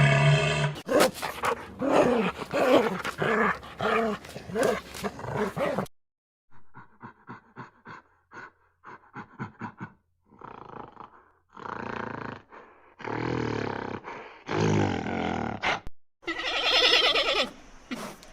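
A run of animal calls from several different animals, cut one after another. Longer pitched calls come first, then a quick string of short calls, then a few longer cries.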